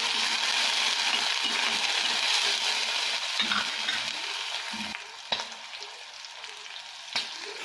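Chopped onion and fresh green peas sizzling in hot oil in a steel kadhai, with a spatula scraping and stirring through them at first. About five seconds in the sizzle drops lower, and two sharp clicks follow.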